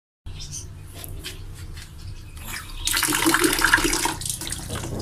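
Water splashing onto a bunch of fresh lucerne (alfalfa) as it is rinsed to wash off soil. It starts suddenly about three seconds in, is loudest for about a second, and then runs on more softly.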